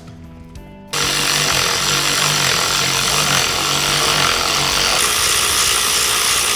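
A power tool starts up suddenly about a second in and runs loudly and steadily, with a faint low pulsing under it.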